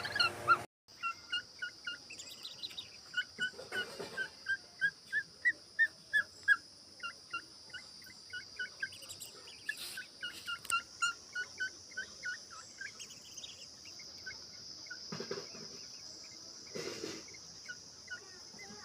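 Young bird's short, high begging chirps, repeated about three times a second, thinning out over the last few seconds.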